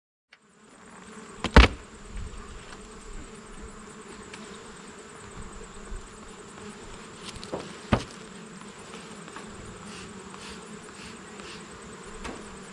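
Honeybees buzzing steadily in a low hum, with two sharp knocks, the louder one about one and a half seconds in and another about eight seconds in.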